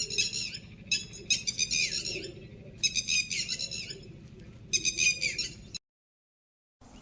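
A bird calling over and over, high-pitched calls about one every second, above a low steady background hum; the sound cuts off abruptly near the end.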